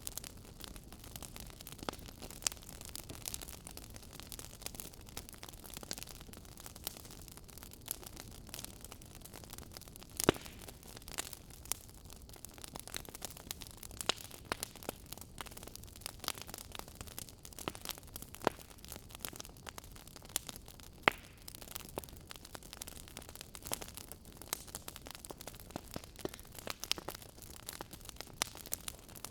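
Campfire crackling: a steady low hiss of burning wood with frequent sharp pops and snaps, a few of them louder, at about 10 and 21 seconds.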